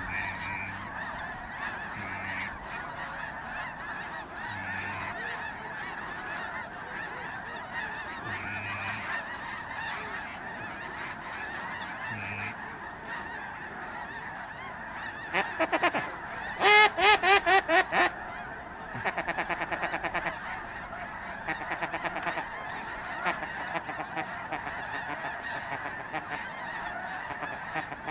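A large flock of geese calling as a continuous massed chorus of honks, with louder, closer runs of rapid honking calls a little past the middle.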